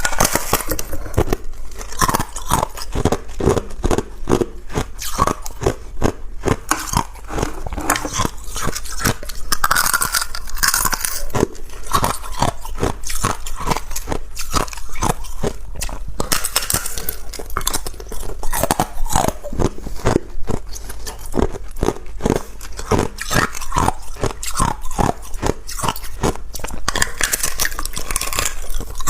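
A person biting and chewing ice: a steady run of sharp crunches and cracks, several a second.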